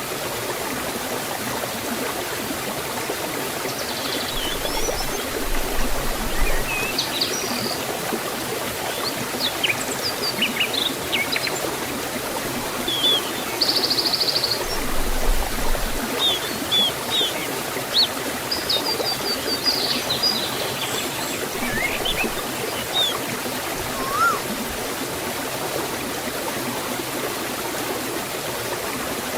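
Forest waterfall and stream, water rushing steadily, with small birds chirping now and then through the middle.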